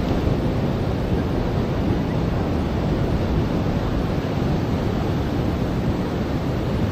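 Ocean surf washing onto a beach: a steady, even rush of water noise, with wind buffeting the microphone.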